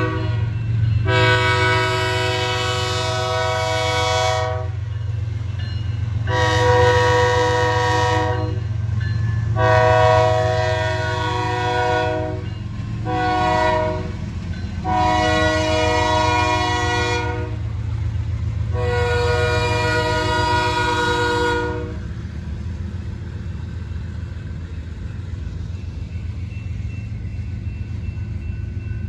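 BNSF freight diesel locomotive's multi-chime horn sounding six blasts, the fourth one short, with the locomotive's low engine rumble underneath. The horn stops a little over two-thirds of the way in, and the train's rumble continues.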